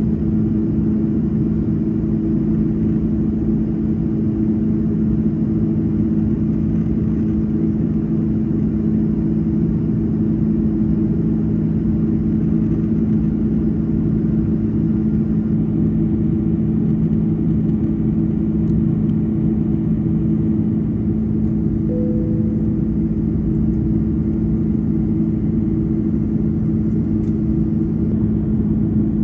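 Steady jet-engine drone inside the cabin of an Airbus A330 airliner, a constant low hum over a rushing noise.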